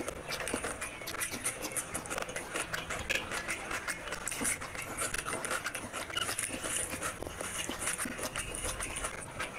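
Close-miked chewing and wet mouth smacks of a man eating rice and curry by hand, a rapid, irregular run of clicks, with a bite of raw onion.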